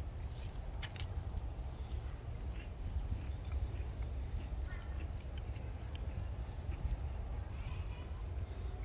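Crickets chirping in a steady, evenly repeating high trill, over a low steady rumble.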